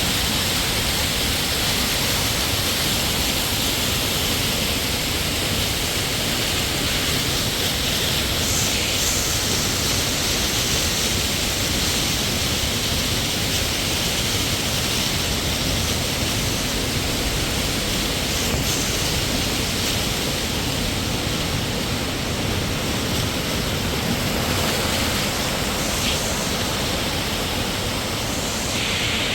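Steady rushing of a waterfall: falling water crashing without a break.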